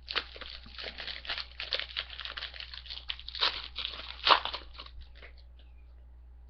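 Foil wrapper of a trading card pack being torn open and crinkled, a dense run of crackling rustles with a sharper tear just after four seconds, stopping about five seconds in.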